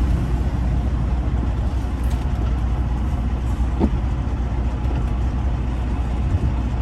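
Semi truck's diesel engine running steadily, heard from inside the cab as a low rumble, with a brief chirp about four seconds in.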